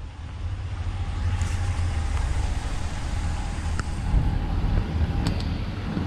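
Vehicle engine running with a steady low rumble, with a few light clicks late on.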